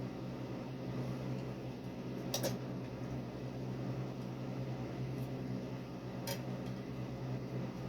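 An electric fan running with a steady hum, with two light clicks, one about two and a half seconds in and another a few seconds later.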